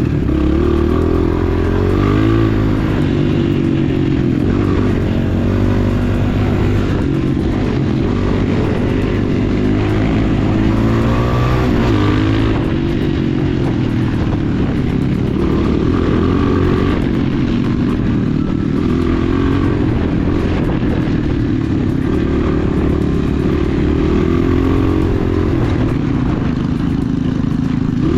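Enduro motorcycle engine running under load, its revs rising and falling again and again as the throttle is worked.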